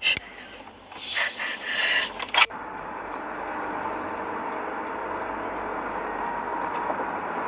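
A loud crackling, noisy burst that cuts off abruptly, followed by steady road and engine noise from a moving car, with a faint hum and occasional light ticks.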